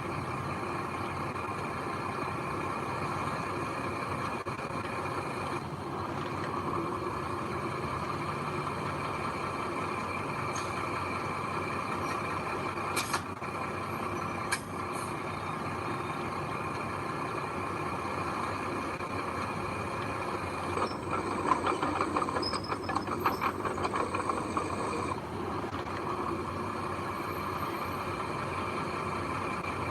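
Heavy diesel machinery running steadily, with a few sharp knocks and a louder rattling stretch a little past the middle.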